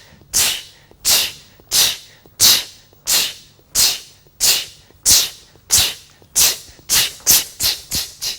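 A teacher's voice repeating the 'ch' sound over and over like a steam train: short, sharp hisses about one and a half a second, quickening near the end as the train goes faster.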